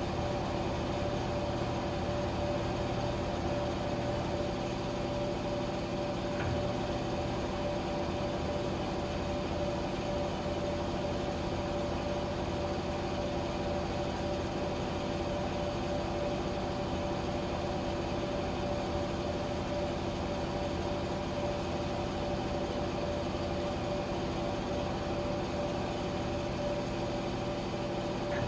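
Washing machine running with a steady motor hum and a constant whine, and a faint tick about six seconds in.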